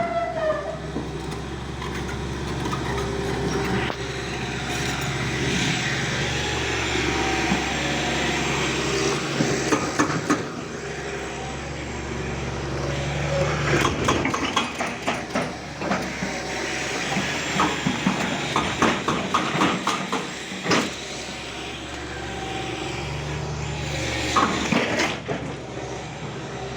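A heavy diesel machine engine running steadily under repeated knocks, cracks and clattering of breaking and falling demolition debris, with quick runs of knocks near the middle and again near the end.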